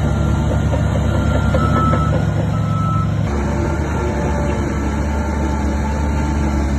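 Diesel engines of heavy earthmoving machinery running steadily, with a reversing alarm beeping during the first half. The engine sound changes abruptly about three seconds in.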